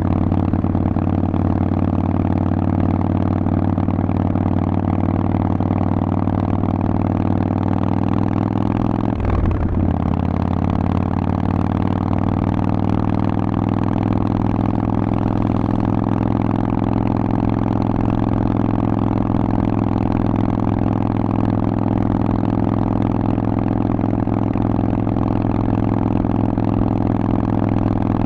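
Harley-Davidson Forty-Eight's air-cooled V-twin running through a Vance & Hines exhaust under way. It holds a steady note, with a short break about nine seconds in, after which the pitch climbs slowly.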